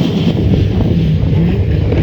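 A rally car's engine running hard and loud on the stage, its note holding fairly steady with slight rises, with wind on the microphone.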